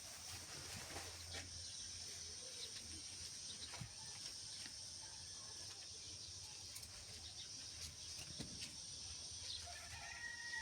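Faint outdoor ambience: a steady high-pitched hiss, scattered small clicks, and a short call that rises and falls near the end.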